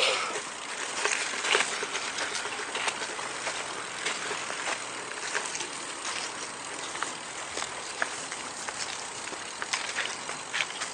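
Footsteps crunching on a dirt trail with irregular light clicks and rustles, over a steady outdoor hiss.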